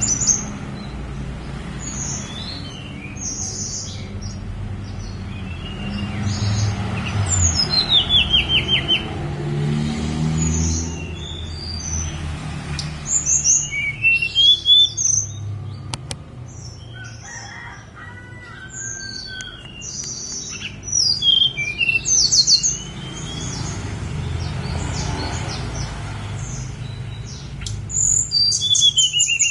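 Tledekan gunung songbird singing: a run of varied high chirps, quick whistled slurs and rapid trilled phrases that come in bursts, with a steady low rumble underneath.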